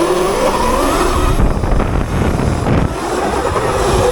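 Sur Ron electric dirt bike's Sotion FW01 motor whining as the bike accelerates on a 48-tooth rear sprocket: the whine rises in pitch over the first second or so, gives way to a rushing, rumbling noise, then returns as a steady whine near the end.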